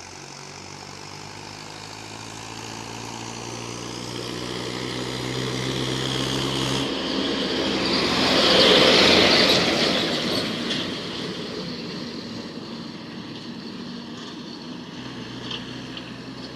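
A heavy diesel vehicle running and passing close. It grows steadily louder, is loudest about nine seconds in, then fades away.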